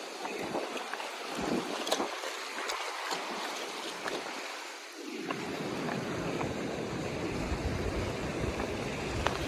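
Ocean waves washing against the shore, a steady hiss of surf. From about halfway through, wind buffets the microphone with a low rumble.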